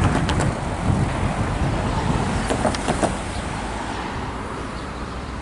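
A road vehicle driving past, its rumble slowly fading away, with a few light clicks near the start and around the middle.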